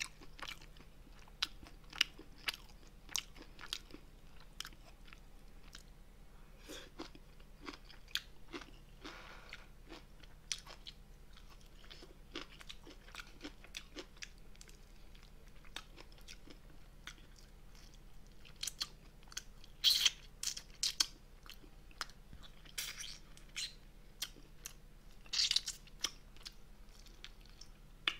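A person chewing braised spicy monkfish and bean sprouts (agujjim) close to the microphone: soft wet chewing with many small sharp clicks and crunches, and a few louder bursts about two-thirds of the way through.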